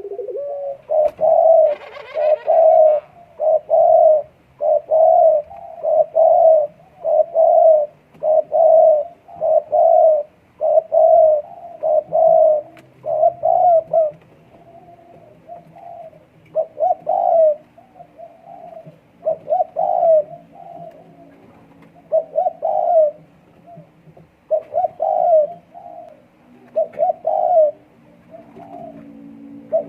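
Puter dekukur dove cooing over and over, short coo notes about one a second in a long unbroken run, then in looser groups with short pauses. It is the cooing of a dove in breeding condition.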